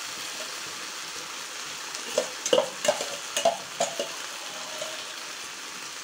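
Steady sizzling of tomato-onion masala and sabudana frying in an iron kadai, with about five sharp metallic clinks in the middle as a perforated steel spoon scrapes soaked sabudana out of a steel bowl.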